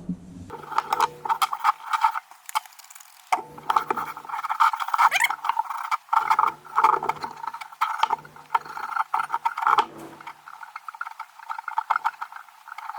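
Irregular rattling, clicking and scraping of metal lantern parts being handled and worked on, coming in patches with short pauses.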